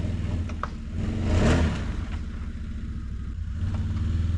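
An engine of a piece of machinery running steadily, revving up and back down briefly about a second and a half in.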